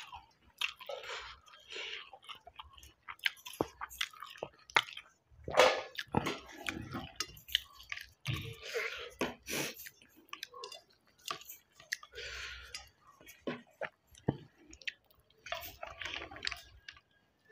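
A person eating rice by hand: close, wet chewing and smacking mouth sounds with irregular clicks, along with squishing as fingers mix soft rice with green chilli thokku on a steel plate.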